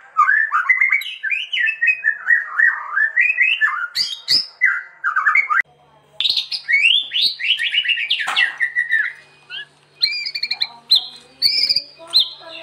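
White-rumped shama singing a fast, varied song of rising and falling whistles and trills. The song breaks off abruptly about halfway through, then resumes, ending in repeated short sharp notes.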